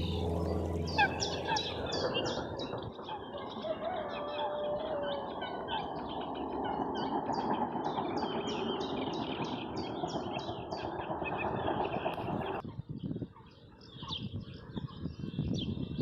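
Songbirds singing, with rapid series of short high chirps, over a steady rushing noise that stops abruptly about three-quarters of the way through, leaving the birdsong on its own.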